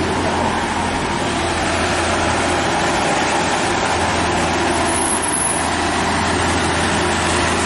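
Heavy diesel dump truck engine labouring steadily at full throttle up a steep climb, a constant low drone.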